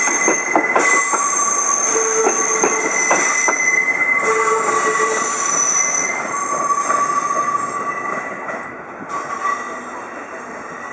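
Seibu 2000-series electric cars, towed as a freight delivery, rolling by with wheels squealing in several high steady tones. The wheels click over rail joints in the first few seconds, and the sound fades as the train moves away.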